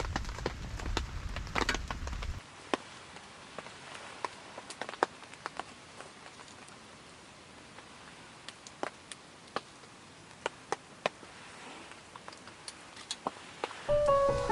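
Rain dripping: single drops tap irregularly, a few each second, over a soft, steady hiss, after a louder, rumbling first two seconds. Piano music comes in near the end.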